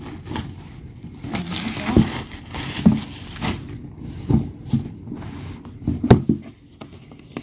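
Packaging being handled and opened: a series of knocks and taps, with crinkling of wrapping for a second or so.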